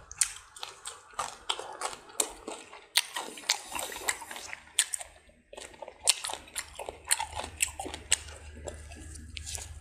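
A person chewing roast pig head and kimchi close to the microphone, with many quick mouth clicks and smacks. There is a short pause in the chewing about five seconds in.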